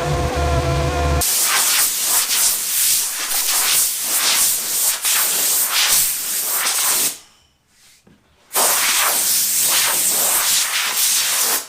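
A loud, steady spray-like hiss in two long stretches, broken by a pause of about a second and a half around the middle. It is preceded by a brief stretch of music.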